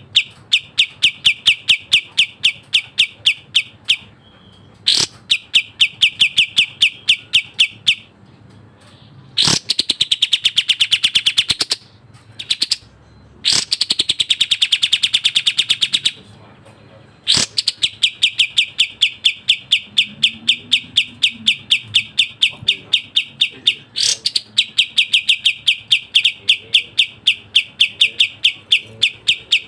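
Kapas tembak songbird singing fast: long runs of sharp, rapidly repeated chip notes, about five a second, broken twice by denser, buzzier trilled phrases and a few short pauses.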